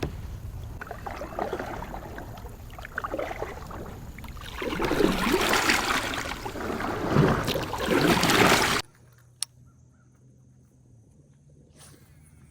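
Water sloshing and splashing around a moving kayak, with low rumbling wind-like noise, growing louder about halfway through. It cuts off abruptly about nine seconds in, leaving quiet with a few faint clicks.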